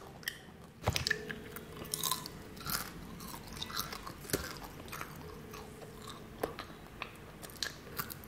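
A person chewing and crunching crisp snack food close to the microphone, in scattered sharp crunches with a louder one about a second in.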